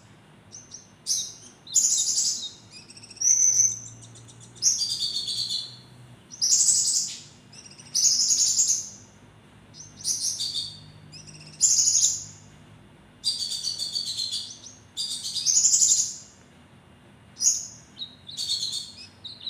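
A konin songbird singing incessantly in sharp, high, chirping bursts, about a second each, repeated a dozen times with short pauses between.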